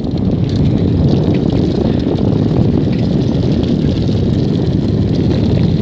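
Steady wind rumble buffeting the microphone while riding along a dirt trail.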